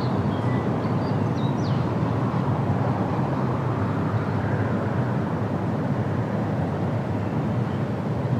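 Steady wind through autumn tree leaves, a continuous low rushing. A few short, high bird chirps come in the first two seconds.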